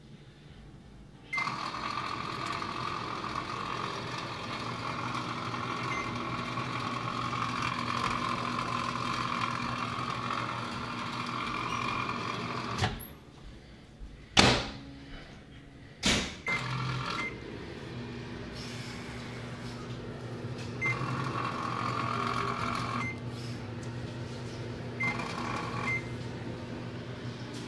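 Old microwave oven running with a steady hum and a whine. About thirteen seconds in it cuts off, followed by three loud clunks, and then it hums again more quietly, the whine returning twice for a second or two.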